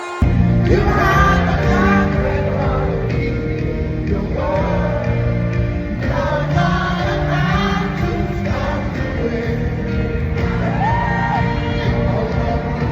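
Live worship music with singing, loud with a strong bass beat, and occasional shouts from the congregation; it cuts in abruptly at the start.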